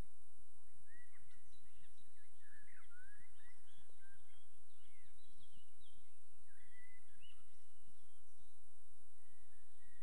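Several small birds singing and calling in short chirps and quick whistled glides, busiest between about one and eight seconds in, over a constant low rumble.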